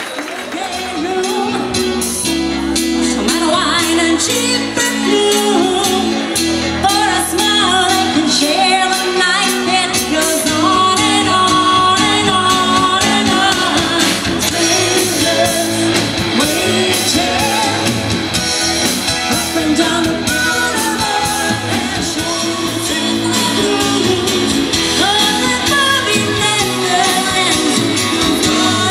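Live rock band playing a song with a lead singer, the full band coming in over the first couple of seconds.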